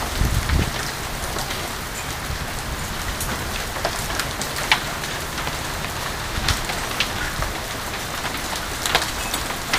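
Steady rain at the tail of a hailstorm, falling on outdoor surfaces, with a scattering of sharp ticks of single impacts.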